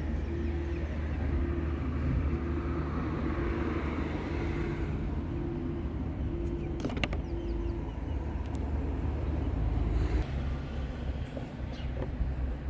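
Car engine running steadily with a low rumble, while a soft beep repeats about once a second and stops about seven seconds in. A sharp click comes around then, and another a few seconds later.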